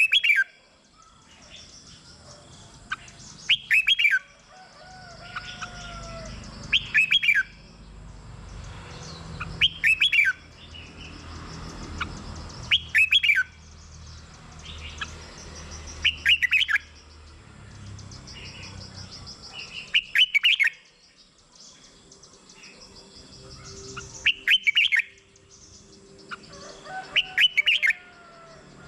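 Red-whiskered bulbul singing, short loud warbled phrases repeated about every three seconds.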